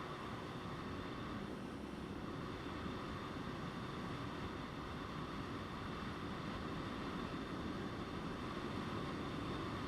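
Motorcycle riding at a steady pace: constant wind rush on the microphone over the drone of the engine and the tyres.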